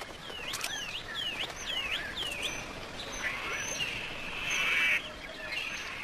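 Bird calls: a quick series of about five sharp swooping chirps, then a longer, harsher call that grows louder about three to five seconds in, and a shorter one near the end.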